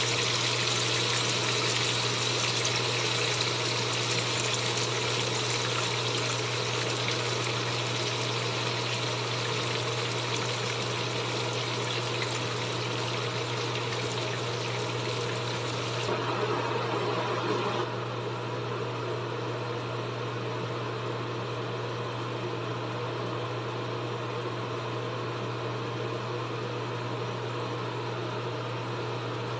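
Chicken pieces frying in hot oil in a pan, a steady dense sizzle with a low steady hum underneath. About 16 to 18 seconds in the sizzle turns a little quieter and duller.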